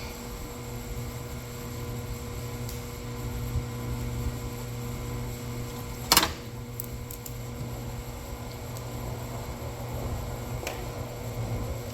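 Steady background hum from a fan, with one sharp metallic clank about six seconds in and a few lighter clicks, from tools or parts being handled.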